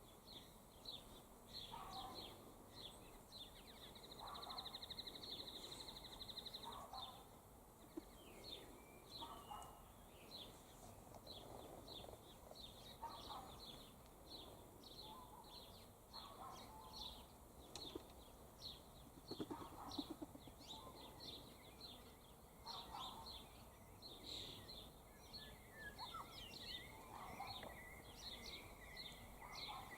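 Faint outdoor bird chorus: many short high chirps from several birds, a high trill about four seconds in, and a lower call that repeats every couple of seconds.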